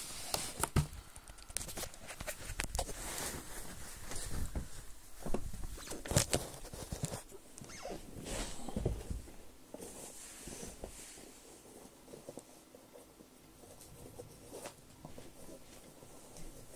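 Rustling, scuffing and scattered knocks of football boots being handled and pulled on by hand. The noises are busiest in the first half and thin out later.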